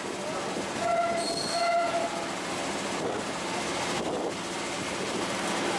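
Train running on the rails with a steady rumble, and a brief shrill tone about a second in, heard twice in quick succession.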